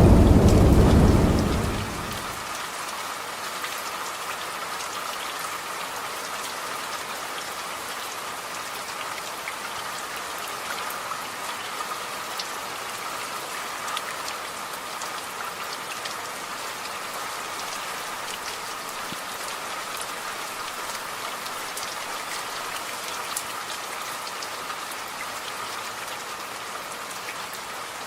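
Steady rain falling, a hiss with scattered sharper drop ticks. A roll of thunder fades out in the first two seconds.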